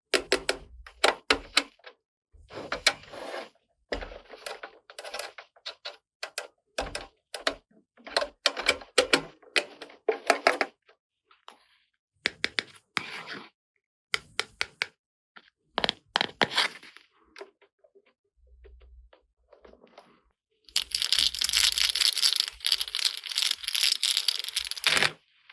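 Small plastic toy pieces and packaging being handled, with many quick clicks and taps. Near the end comes about four seconds of continuous crinkling, like plastic wrapping being rustled or torn.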